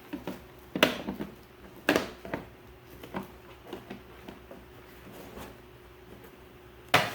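Hard plastic knocks and clicks from the Hart 20-volt shop vac's housing and latches being clipped and handled: a few sharp knocks, the loudest near the end, with lighter taps between.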